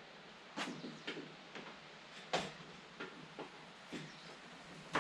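A series of irregular light knocks and clicks, about eight in all, the loudest near the middle.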